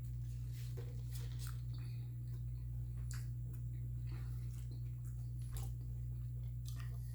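A person chewing food close to the microphone, with short scattered mouth clicks and smacks. A steady low hum runs underneath and is the loudest sound.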